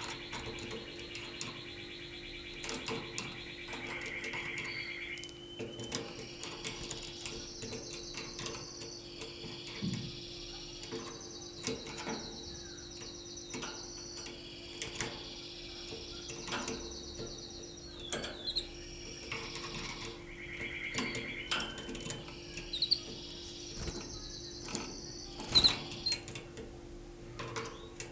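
Canary singing long rolling trills, each phrase held for several seconds before it jumps to a higher or lower-pitched trill, the kind of song used for mating. Sharp clicks and taps come throughout, the loudest near the end, over a steady low hum.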